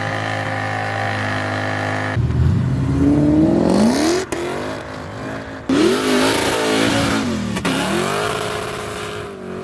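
Car engine revving: it holds one steady pitch for about two seconds, then climbs and falls through several rev sweeps, broken off sharply a few times.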